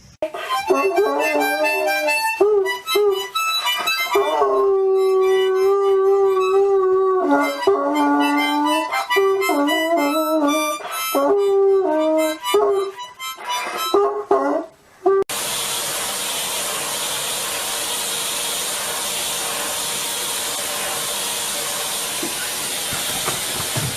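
A dog howling in long held notes that step and slide in pitch, with harmonica-like tones. About fifteen seconds in it stops abruptly and a steady rushing hiss takes over.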